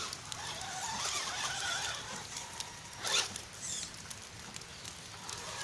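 HSP Kidking radio-controlled car's electric motor whining, its pitch wavering up and down with the throttle, with a short, loud rasping burst about three seconds in.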